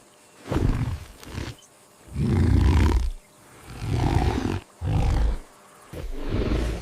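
A series of deep animal roars, about five, each lasting under a second with short pauses between them.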